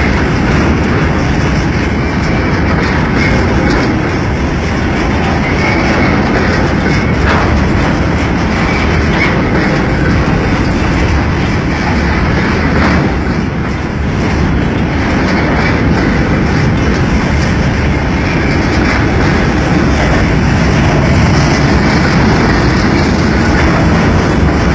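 Freight train of empty wagons rolling past at close range: a loud, steady rolling rumble with scattered clicks of wheels over the rail joints.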